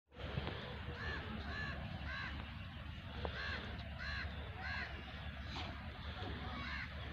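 A bird calling over and over, short arched calls about twice a second, over a low steady rumble.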